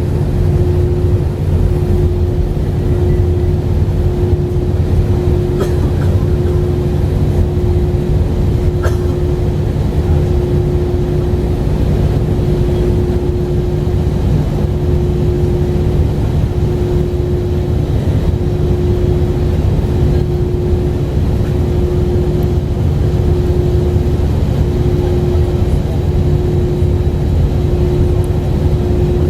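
Airbus A320 cabin noise while taxiing after landing: the engines at idle give a steady low rumble with a steady hum above it. A couple of faint clicks sound about six and nine seconds in.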